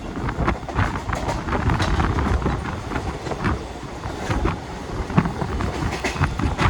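Mumbai suburban local train running, a steady low rumble with irregular clattering and knocks.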